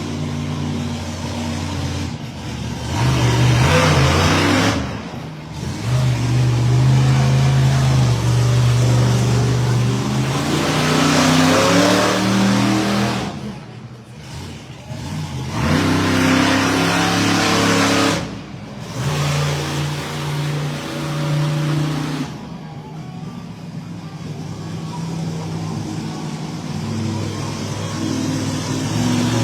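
A 1,500-horsepower monster truck engine revving hard in repeated surges, rising in pitch, with short sharp drops between them. It settles to a lower, steadier run for the last several seconds.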